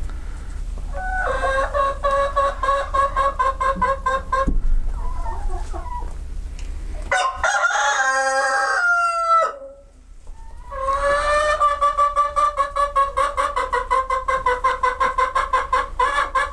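Chickens calling: three long, pitched calls with a rapid pulsing quality. A rooster crows, and the middle call falls in pitch at its end.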